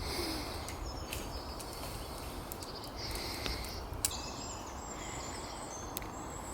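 Outdoor background noise in a woodland, with faint bird chirps and a few light clicks.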